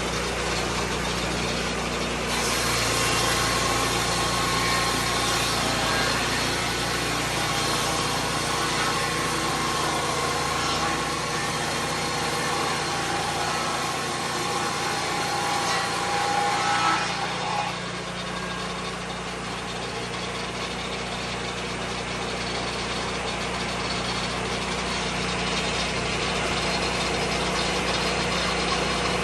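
Lucas Mill 10-30 portable sawmill's engine running steadily. About 17 seconds in, a higher whine stops and the sound drops slightly, leaving the engine running alone.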